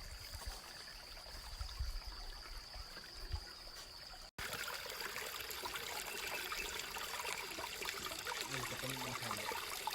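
Water trickling in a stream, growing louder after a cut about four seconds in; before the cut a steady high tone and a few low knocks sit under it.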